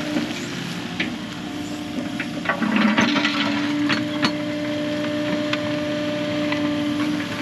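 Kubota KX080 excavator's diesel engine running at a steady pitch, with a spell of crackling and sharp knocks a little before the middle.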